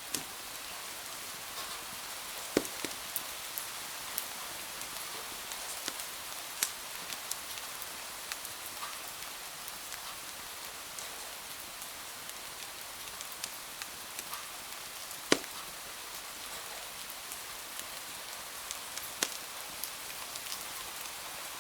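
Steady rain hiss with a wood fire crackling over it: irregular small crackles and a few sharp, louder pops, the loudest about two-thirds of the way through.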